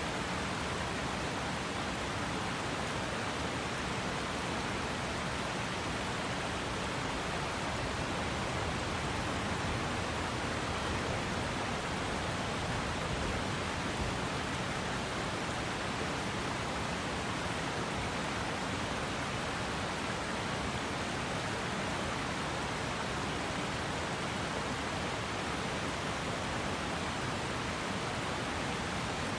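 Steady rush of a flowing river, the water running without pause and without change in level.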